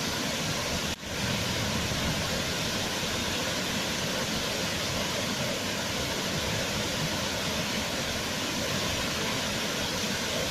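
Waterfall: a steady rush of falling water, with a momentary dip in level about a second in.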